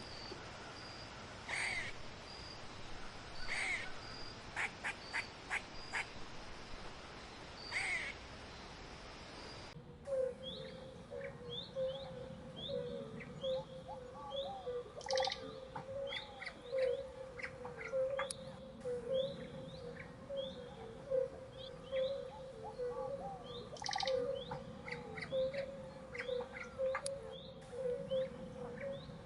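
Birds calling in a forest: short repeated high calls over steady background noise. About ten seconds in the sound cuts to a busier chorus of quick, falling chirps over a steady warbling note.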